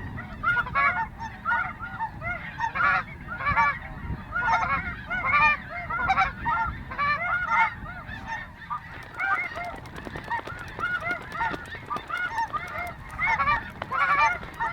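A large flock of snow geese calling, many short high honks overlapping into a continuous clamour, busiest at the start and again near the end.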